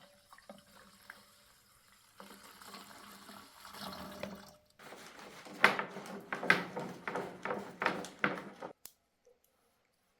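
Liquid sounds from a garden pump sprayer as water-diluted deep-penetration primer is handled and sprayed. A soft sloshing hiss comes first, then a run of short, sharp spurts in the second half that stops about nine seconds in.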